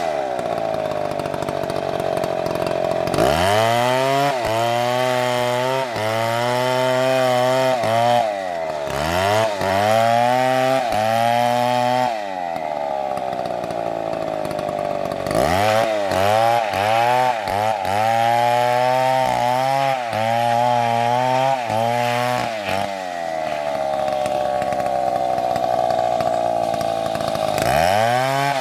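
Chainsaw running hard, switching several times between a high, steady free-revving whine and a lower, wavering pitch as the engine comes under load in the cut, then rising again when it comes free.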